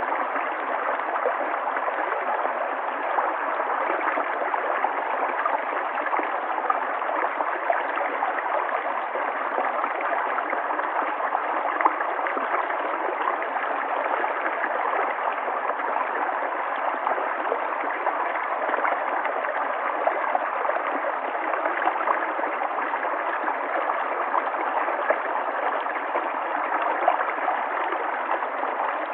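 River water flowing steadily, a continuous rushing with small splashes and gurgles through it.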